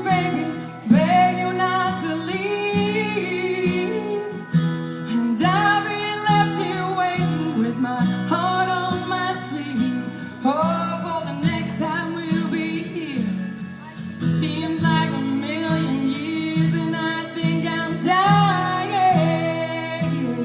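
A woman singing a song over acoustic guitar accompaniment, her voice rising into each phrase over steady strummed chords.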